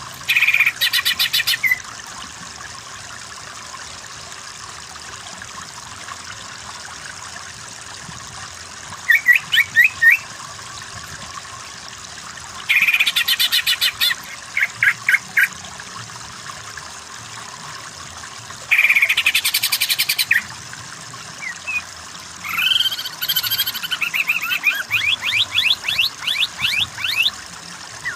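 A cucak ijo (greater green leafbird) singing in bursts of rapid, fast-repeated trilled phrases, five in all, with the longest and most varied near the end. The song is the energetic, sustained 'kejer' style used as a master recording. A steady hiss of running water sits under it.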